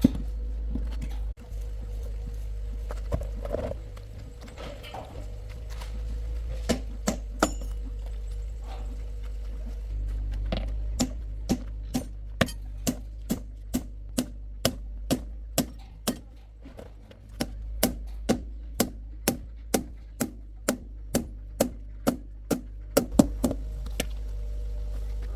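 A regular series of sharp knocks, about two a second, with a short break in the middle, over a low steady hum.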